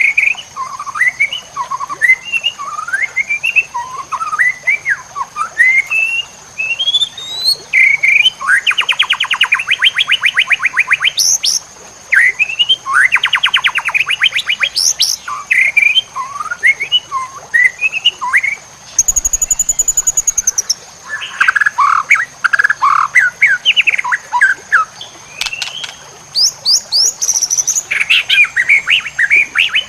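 White-rumped shama (murai batu) in full song: a varied run of short rising whistles and slurred phrases broken by fast rattling trills, with a buzzy note about two-thirds of the way through. A thin steady high tone runs underneath.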